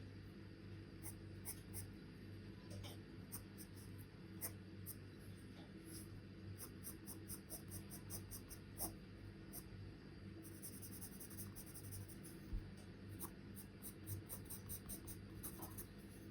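Charcoal scratching on paper in many short strokes, faint, with a quick run of strokes around two-thirds of the way in, over a steady low hum.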